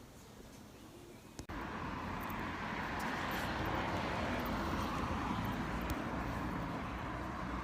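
Steady street ambience with a dull traffic hum, cutting in suddenly about a second and a half in after a brief hush.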